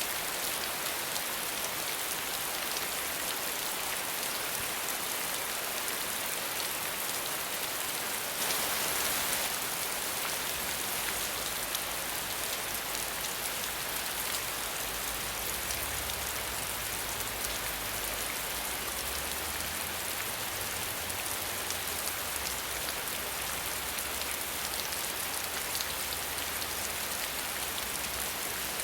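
Steady rain with no thunder: a dense, even patter of drops that swells briefly louder about eight or nine seconds in.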